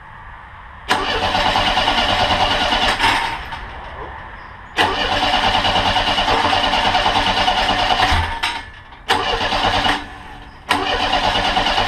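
Monster trike's starter cranking the engine in four bursts, the second the longest and the third short, without it catching: the engine has lost spark, which the owner first blames on a bad coil and then on a connection problem.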